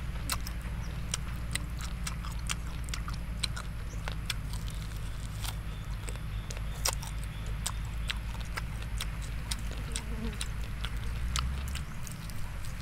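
A person chewing and biting into roasted chicken, a run of irregular mouth clicks several times a second over a steady low rumble.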